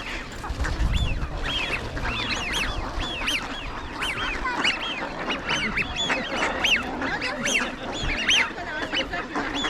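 A large flock of ducks calling, many short, high arched calls overlapping, several a second.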